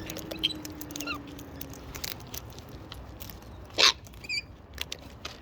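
Wild cockatoos feeding at a bucket: many small clicks and taps of beaks working seed, with one loud, short, harsh sound nearly four seconds in and a few faint chirps just after it.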